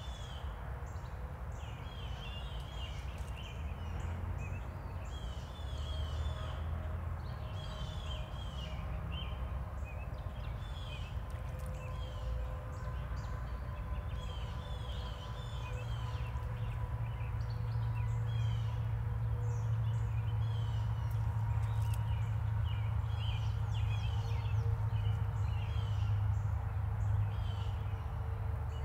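Small birds chirping over and over in short, quick calls, over a steady low rumble that grows louder about halfway through.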